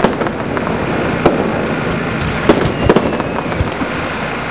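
Aerial fireworks going off: a dense steady crackle with sharp bangs of shells bursting, the loudest about two and a half seconds in, then another just under a second later.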